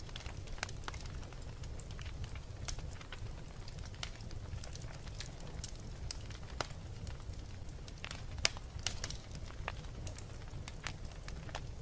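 Wood fire burning in a fireplace, crackling and popping irregularly over a steady low rumble of the flames, with a few sharper pops about eight to nine seconds in.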